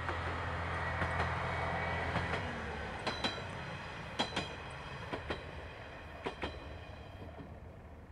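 Kanto Railway KiHa 5000 diesel railcar passing: a steady low engine drone that drops away about two seconds in, then the wheels click over rail joints in quick pairs, about eight clicks in all, before the sound fades near the end.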